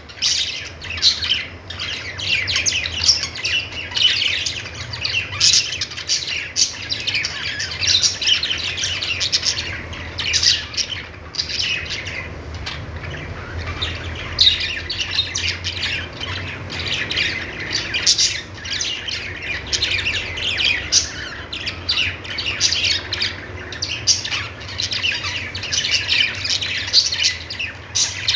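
A group of budgerigars chirping and warbling continuously, with many short overlapping chirps and squawks.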